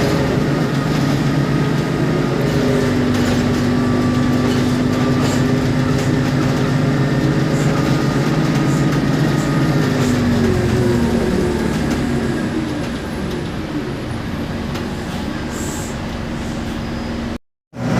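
Isobus City 1200 city bus under way: its MAN D0836 diesel engine and ZF Ecomat 6HP504C automatic gearbox and differential run steadily, then fall in pitch and ease off from about ten seconds in as the bus slows. The sound cuts out briefly near the end.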